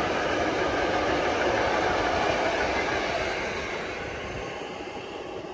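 Passenger coaches of a train rolling past on the rails, wheels running steadily, the sound fading away as the last coach goes by about three seconds in.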